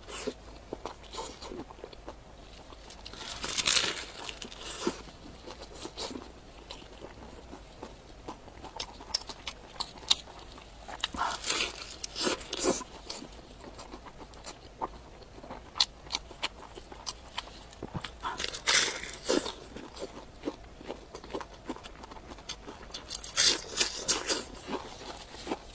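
Close-miked chewing and crunching of pig's head: a crunchy bite every few seconds, with small wet mouth clicks between.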